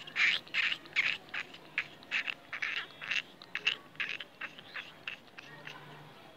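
Bird calls: a rapid, irregular series of short, harsh chirps, several a second, thinning out near the end.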